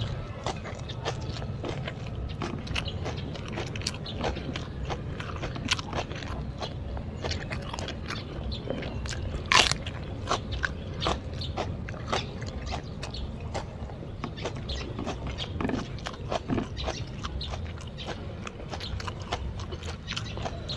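A person chewing and crunching a mouthful up close, with many small wet mouth clicks and one much louder crunch about halfway through. Fingers scrape rice together on a china plate between bites.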